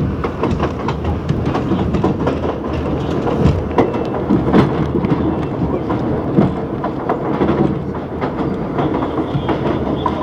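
R62A subway train running at speed, a steady rumble with irregular clicks and clatter of the wheels over the rail joints.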